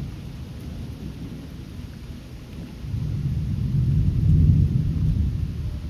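Rolling thunder, a deep low rumble that swells about three seconds in and eases off near the end, over steady rain.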